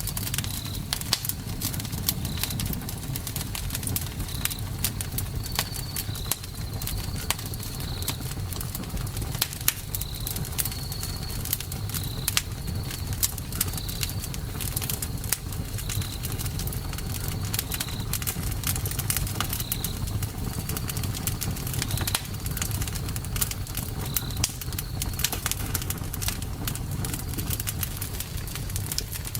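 Campfire crackling and popping over the steady low rumble of the flames. A short high chirp repeats every second or two until near the end.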